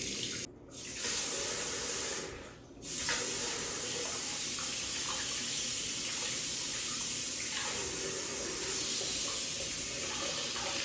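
Tap water running steadily, with two brief breaks in the flow in the first three seconds.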